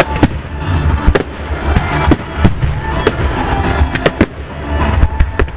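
Aerial firework shells bursting in quick, irregular succession, about two sharp bangs a second over a continuous low rumble, with music playing underneath.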